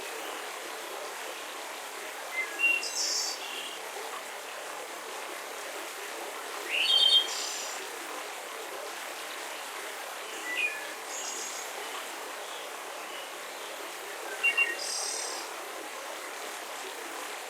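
Wild birds chirping in short bursts every few seconds, the loudest about seven seconds in, over a steady background hiss.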